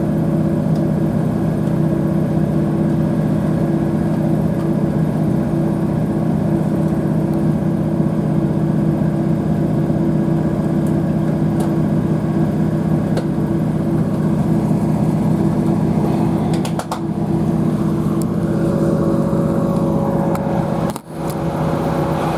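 Northern Sprinter diesel multiple unit running along the line, heard on board: a steady drone of the underfloor diesel engine and transmission with rumbling wheel and track noise, and two brief dips in the sound near the end.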